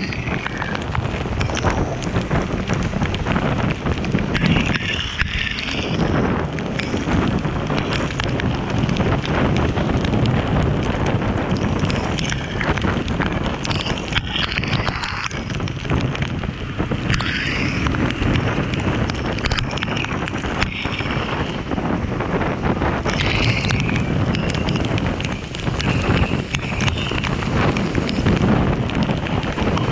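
Steady wind rushing over the microphone of a rider on the move, mixed with road and vehicle noise.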